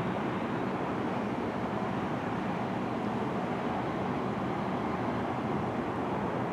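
Steady rushing noise of a thunderstorm, holding even throughout with no sharp thunderclap.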